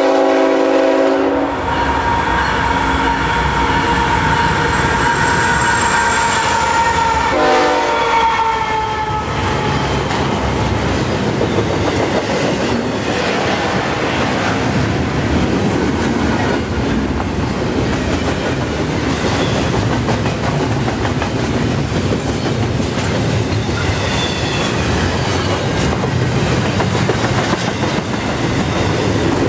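CN freight locomotives sound their multi-note horn in a blast at the start and a short blast about seven and a half seconds in, with a high steady whine between them. Then the double-stack intermodal well cars roll by in a steady rumble with clickety-clack from the wheels over the rail joints.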